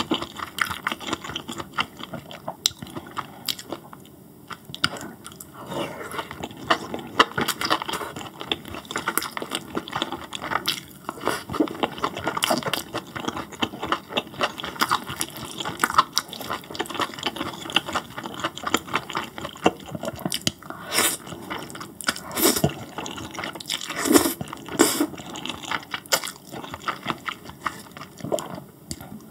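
Close-miked chewing of grilled beef intestines (gopchang): a steady run of small mouth smacks and clicks, with a few louder ones about three-quarters of the way through.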